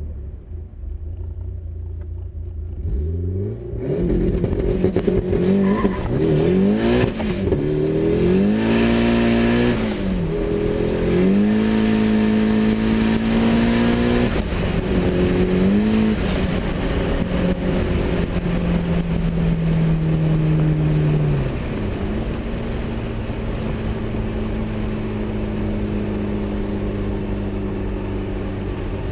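1997 Mitsubishi Eclipse GSX's turbocharged 2.0-litre 4G63 four-cylinder, heard from inside the car, revved hard at full throttle. The engine note climbs and falls several times, then holds high and slowly sinks, as the Southbend clutch slips under about 28 psi of boost. About 21 seconds in it drops abruptly to a quieter steady drone.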